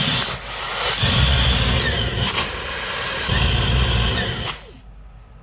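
Samsung Jet 70 cordless stick vacuum motor running with a high whine, surging louder and higher three times and easing back in between, then switched off about four and a half seconds in, its pitch falling as it spins down.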